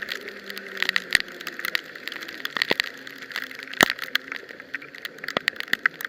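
Heavy rain during a bicycle ride: a steady wet hiss with many irregular sharp taps.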